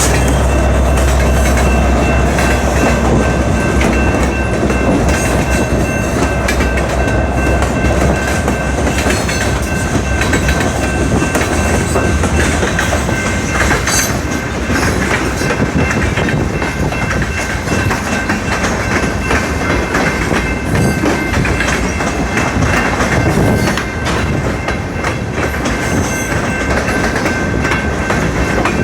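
Freight trains passing close by: freight cars rolling, with wheels clacking over rail joints. A low diesel locomotive rumble underneath fades about twelve seconds in.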